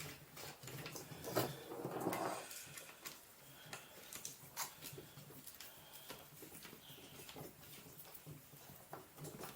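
Hand-work sounds on a mountainboard truck: scattered small clicks and taps of parts being handled and fitted, with a brief scraping, rubbing noise about two seconds in.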